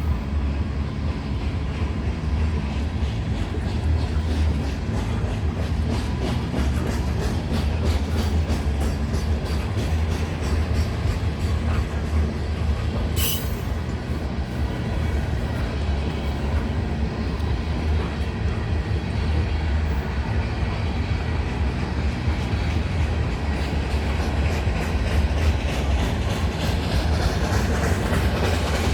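Freight cars of a CN train rolling past: a steady low rumble with a rapid run of wheel clicks over the rail joints and one sharp clank about 13 seconds in. The noise grows louder and hissier near the end.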